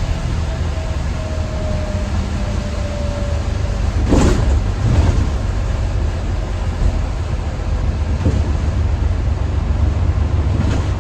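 Diesel bus engine running under way, a steady low rumble with a faint whine that falls slowly in pitch over the first few seconds. A sharp clunk about four seconds in, with a couple of smaller knocks later. The bus no longer makes its 'hoover' whine.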